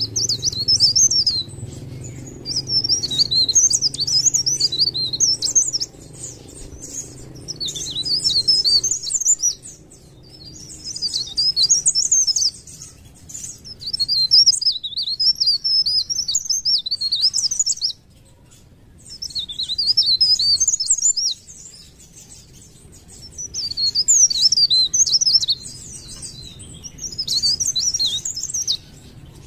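Mountain leaf warbler (cikrak daun) singing in bursts of rapid, high-pitched twittering. Each burst lasts two to three seconds, with short pauses between, about eight times over.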